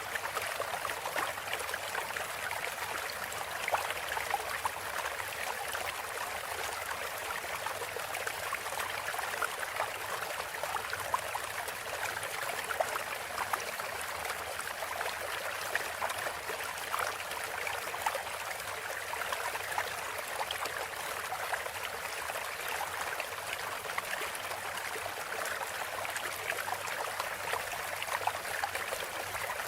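Running water flowing steadily, a stream trickling with many small splashes and gurgles.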